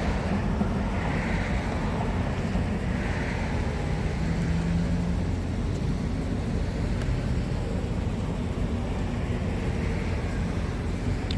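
Steady low engine rumble with outdoor background noise, unbroken throughout.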